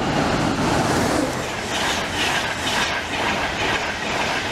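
Express passenger train passing the platform at speed, close by: a loud rush of wheel and air noise, turning into a rhythmic clatter of wheels over the rails from about a second and a half in.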